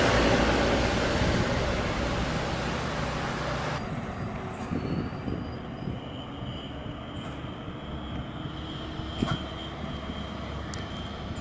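Heavy truck diesel engine labouring under load, fading over the first few seconds. It then drops abruptly to a quieter low rumble with a steady high whine and a few clicks.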